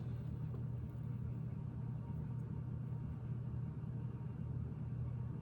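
A steady low hum, even throughout, with no clicks or knocks.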